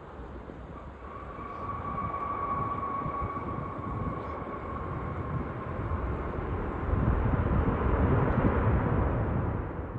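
Jet airliner's engines passing close by, growing louder and loudest near the end, with a steady high fan whine over the rumble in the first half.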